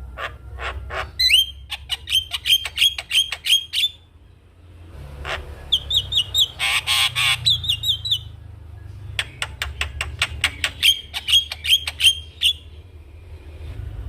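Javan myna singing: runs of rapid, sharp repeated notes, several a second, broken by a short pause, with a harsh rasping call in the middle.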